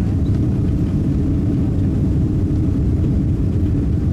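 Steady low rumble inside an airliner cabin, the jet engines and cabin air running.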